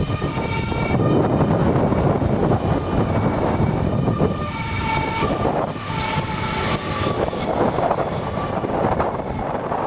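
Strong, gusty wind blowing across the microphone ahead of a storm, with faint held tones coming and going over it.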